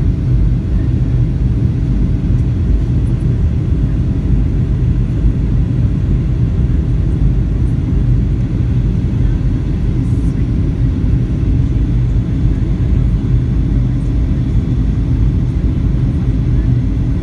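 Steady low rumble of a Boeing 737-800's CFM56 engines and airflow as heard inside the passenger cabin, even throughout with a faint steady hum over it.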